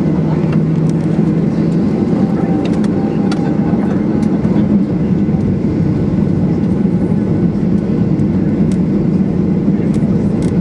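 Steady cabin noise inside a Boeing 737-800: the constant rumble of the engines and airflow heard from a passenger seat, with a low hum that fades out about two seconds in and a few faint clicks.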